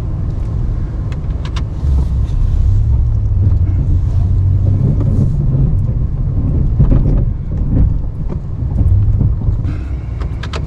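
Ram 1500 Classic half-ton pickup's engine working under load as it pushes snow with its plow: a steady low rumble that grows louder about two seconds in, with scattered clicks and knocks.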